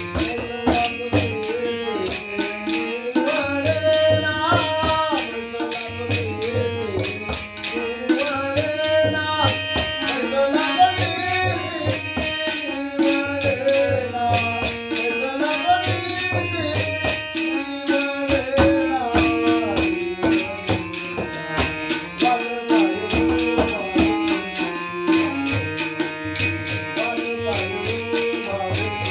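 Marathi devotional abhang sung as a bhajan: a melodic vocal line with instrumental accompaniment over a steady jingling percussion beat and regular low drum pulses.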